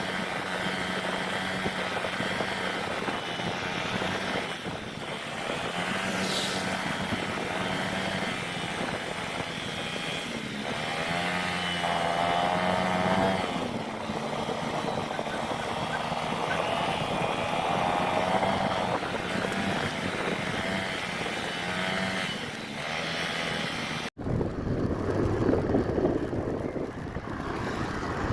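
Honda Click 125i scooter's single-cylinder engine running while riding, its pitch wavering with the throttle, with road and wind noise. About four seconds before the end the sound cuts abruptly to a rougher rumble of wind on the microphone.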